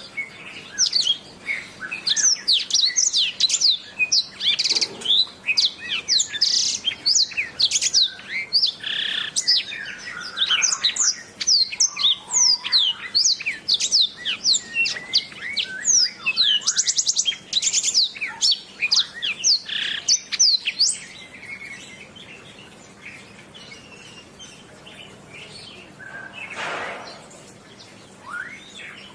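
Domestic canary singing a fast, continuous run of high chirps and trills, which breaks off about three-quarters of the way through into a quieter stretch.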